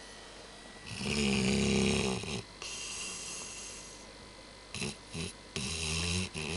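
Labrador retriever snoring in its sleep: a loud snore about a second in, then quieter breathing with a couple of short catches, and another loud snore near the end.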